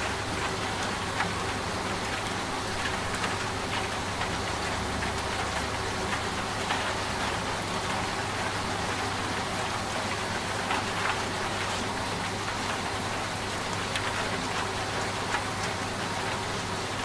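Rain falling steadily with scattered drop taps, over the steady low hum of a running washing machine.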